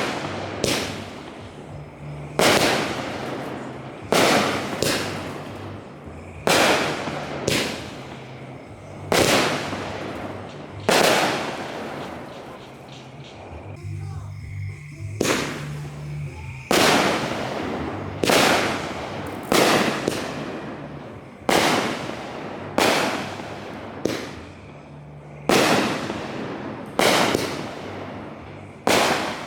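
Aerial fireworks bursting one after another: about twenty sharp bangs, roughly one every one to two seconds, each trailing off in a short echo, with a brief lull about halfway through.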